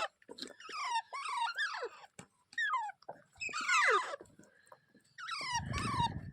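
A parrot calling: a run of short, harsh squawks, each falling steeply in pitch, repeated with brief gaps. Near the end a low rumble sits under the last calls.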